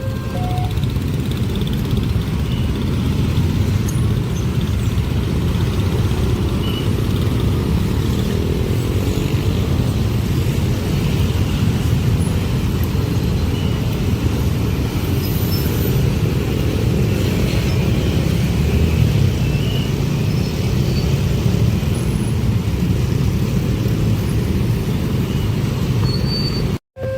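A train passing close by a level crossing: a loud, steady rumble of wheels on the rails that goes on without a break, then cuts off suddenly near the end.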